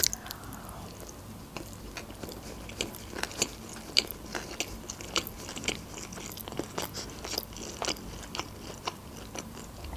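A woman chews a mouthful of sushi roll close to the microphone, with wet mouth sounds and many small irregular clicks.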